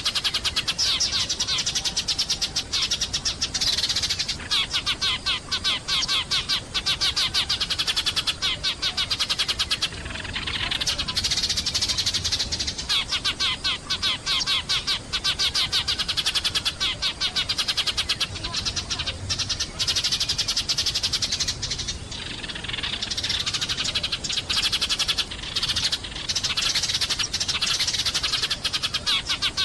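Sparrows chirping in a fast, steady stream of short, high chirps, with brief lulls about ten and twenty-two seconds in.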